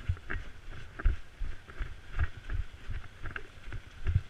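Footsteps at a walking pace, two or three a second, each a dull thump with gear rattling.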